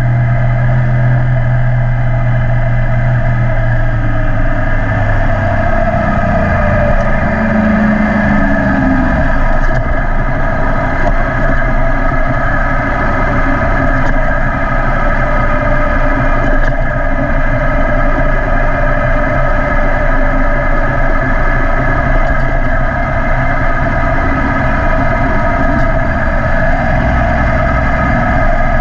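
Yamaha YZF-R1 inline-four engine through an Akrapovic exhaust while the bike is ridden. A strong low engine note is heard for the first six seconds or so, then the sound settles into a steady, noisy drone.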